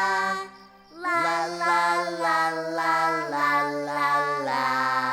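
Cartoon child voices singing a song over music, with a brief pause in the singing about half a second in.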